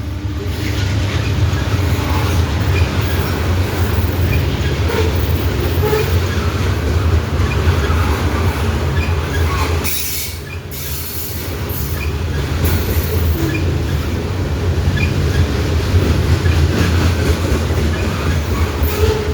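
Loaded grain-train freight cars rolling past in a steady low rumble, their wheels clicking over the rail joints. The sound dips briefly about halfway through.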